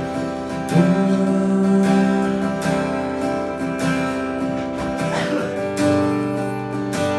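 Acoustic guitar strummed in slow chords, about one strum a second, each chord left ringing between sung lines of a song.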